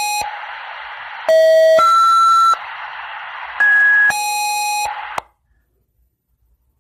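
Fire dispatch alert tones over a radio channel: a run of steady electronic beeps, each held for about half a second to a second, stepping between different pitches over a radio hiss. The tones stop about five seconds in.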